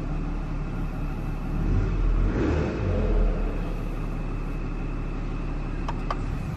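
Mercedes GLE 400d's straight-six diesel engine idling steadily at about 710 rpm, heard from inside the cabin. It swells louder briefly about two to three seconds in, and a couple of sharp clicks come near the end.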